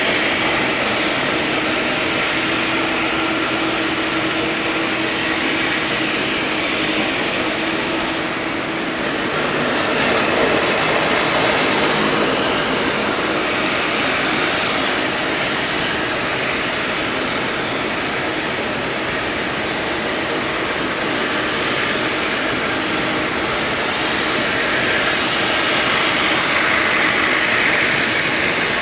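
Boeing 787-8 jet engines running: a steady roar that swells and eases slowly a few times.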